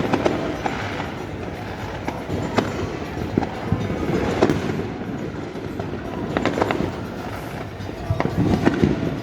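Fireworks going off: a run of irregularly spaced sharp bangs and pops over a steady background rumble.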